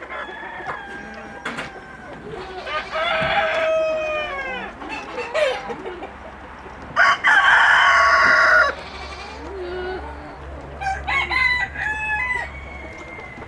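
Chickens calling: a rooster crows among clucking hens, with the loudest call, a long harsh one, about seven seconds in.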